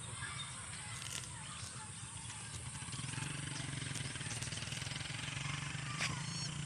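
Faint, steady engine hum that grows a little louder about three seconds in, with small bird chirps and a few light clicks over it.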